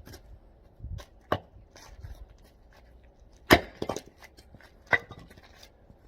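Hand hatchet chopping and splitting oak firewood: three sharp chops, the loudest about three and a half seconds in, with lighter knocks of wood between them.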